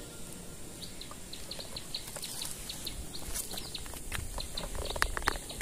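Small birds chirping in the forest: many short, quick chirps throughout over a low rumble, with a few sharper clicks about five seconds in.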